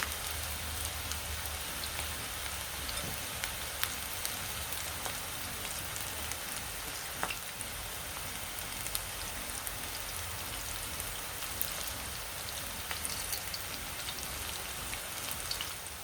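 Onion pakodas (gram-flour batter fritters) deep frying in oil on medium heat: a steady sizzle with scattered small pops.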